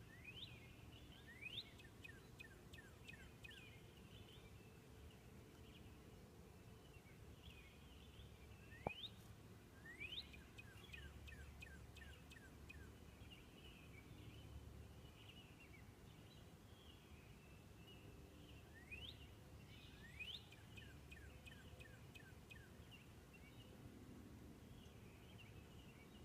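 Northern cardinal singing faintly: phrases of rising whistled notes, each followed by a run of quick falling notes, three times about ten seconds apart, with other birds chattering softly throughout. A single sharp click about nine seconds in.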